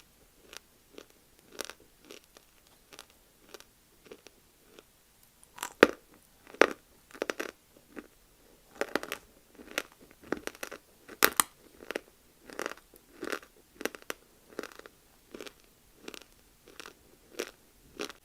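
Chunks of multani mitti (fuller's earth clay) being bitten and chewed: repeated crisp crunches, about one or two a second, loudest around six and eleven seconds in.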